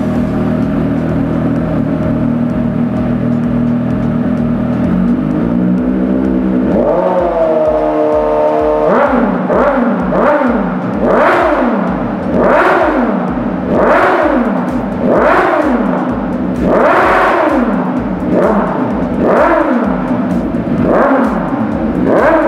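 Suzuki GSX-S750's inline-four engine through a Hurricane Evolution GP aftermarket exhaust: idling steadily, then held at raised revs for a few seconds. It is then blipped about ten times, roughly one rev every second and a half, each climbing and falling back.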